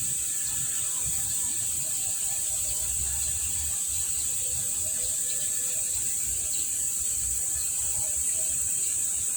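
Insects droning steadily in one unbroken high-pitched hiss, with faint short chirps now and then.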